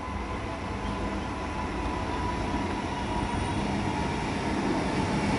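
Comeng electric multiple-unit train approaching on the track, its running noise growing steadily louder as it nears.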